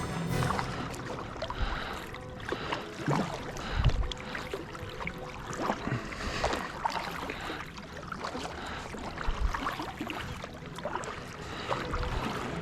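Water splashing and sloshing around a fishing kayak, with scattered irregular knocks and clicks.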